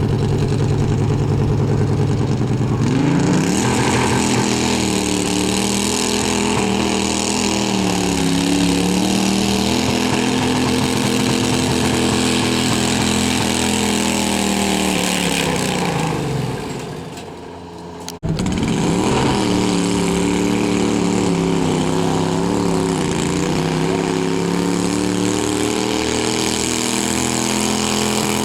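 Garden pulling tractor's engine running hard under load: it revs up about three seconds in and holds high with its pitch wavering up and down, winds down around the middle, then after an abrupt cut is running hard again.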